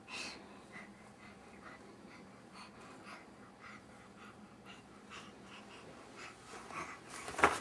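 Quiet room with a baby's faint breathing and small scattered mouth clicks, then a short loud vocal sound from the baby near the end.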